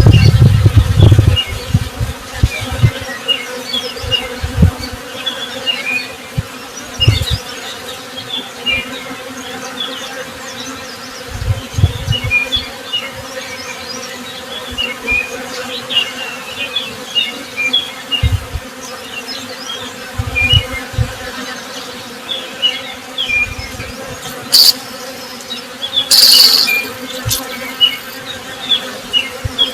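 A swarm of honey bees buzzing in a steady hum, with single bees droning past close to the microphone again and again, loudest just at the start. Small birds chirp in short high notes throughout, and there is a brief sharp high sound a few seconds before the end.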